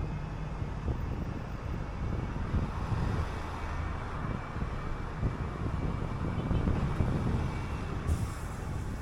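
City bus running, heard from on board: steady engine and road rumble, with a short hiss of air near the end.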